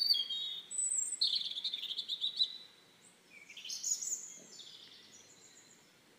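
Songbirds chirping and singing in high, quick notes, with a longer trilled phrase about a second in and another burst of calls around four seconds, fading toward the end.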